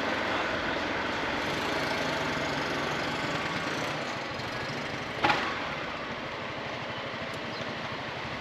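Honda ADV 350 scooter's single-cylinder engine running while riding, mixed with steady wind and road noise on the rider's microphone. A single sharp knock sounds about five seconds in, the loudest moment.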